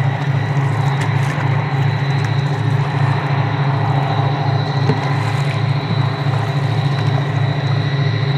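Towboat's diesel engines droning across the water, a steady low hum with an even throb of about three pulses a second.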